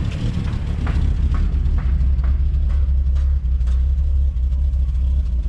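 1975 Plymouth Duster's 225 slant-six engine idling with a steady, deep exhaust rumble, running again after 11 years on a fresh battery and fresh gas.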